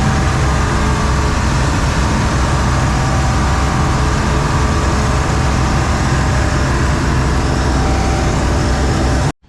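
Heavy farm machinery engine running loud and steady, a low drone with faint steady whining tones over it, cutting off suddenly near the end.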